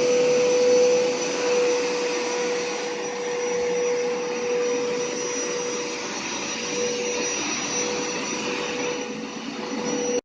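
Hoover Power Scrub Deluxe FH50150 carpet washer's motor running steadily after being switched on, a whine held at one pitch over rushing air.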